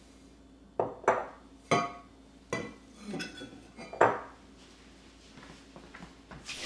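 Hard glass or ceramic items knocking and clinking as they are handled and set down: about six sharp clinks with brief ringing in the first four seconds, then a faint knock near the end.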